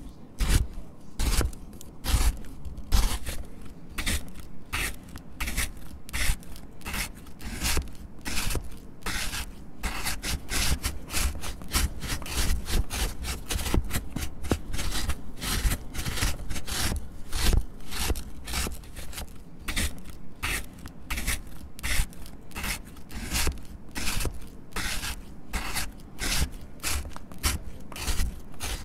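A knife cutting through a solid, crumbly Lush Eskimo bubble bar: many short scraping and crunching strokes in an uneven rhythm.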